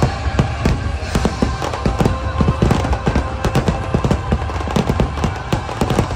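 Aerial fireworks shells bursting in rapid, overlapping bangs, several a second, during a finale-style barrage, over loud show music.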